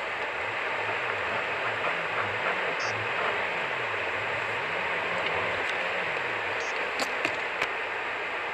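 Steady road and engine noise of a moving car, picked up by a dashboard camera, with a low tone rising and falling over and over through most of it and three sharp clicks near the end.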